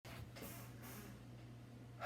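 Near silence: faint room tone with a steady low electrical hum and light hiss.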